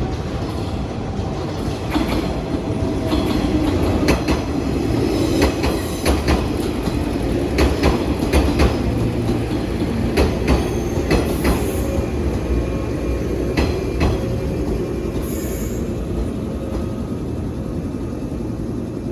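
Electric train running, its wheels clacking over rail joints and points in a string of sharp irregular clicks through the middle, over a steady low rumble.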